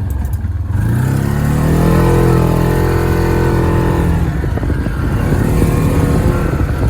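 Side-by-side UTV engine revving under throttle: its pitch climbs about a second in, holds high, then eases off about four seconds in. A heavy low rumble and scattered knocks and rattles run under it.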